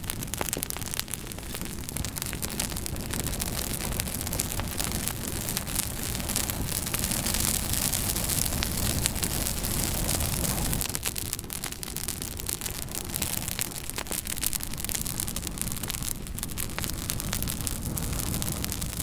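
Wood fire burning in a fireplace: a steady rush of flames with many small crackles and pops, growing louder for a few seconds in the middle.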